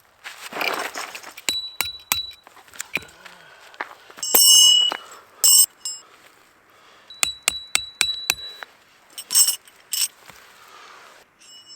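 Hard items clinking and knocking together, with a string of sharp clicks and short high ringing tones. A rustle comes at the start, and the loudest, longest-ringing clink comes a little past four seconds in.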